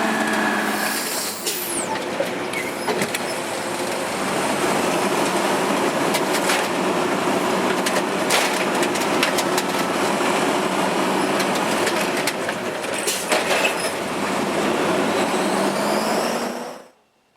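Garbage truck working at close range: engine and hydraulics running loudly with scattered metal clanks and knocks. It cuts off suddenly near the end.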